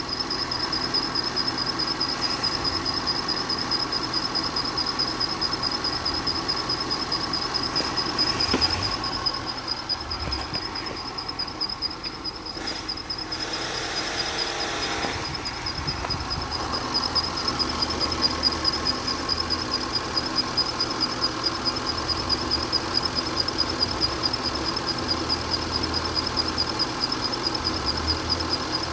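2018 Land Rover Discovery 3.0 L supercharged V6 gasoline engine running at idle, with a steady high-pitched whine over it. It drops quieter for a few seconds midway.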